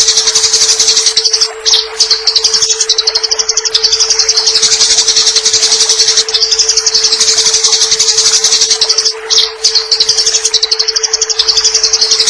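Eurasian tree sparrows in a fighting chatter: a dense, very rapid, harsh high-pitched twittering that barely pauses, breaking briefly twice. A steady low hum runs underneath.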